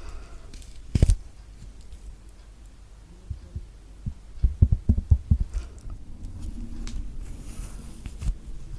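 Close-up handling and peeling of a thick-skinned orange, the peel pulled away from the pieces with faint crackling. There is a single low knock about a second in and a quick run of dull low knocks around the middle.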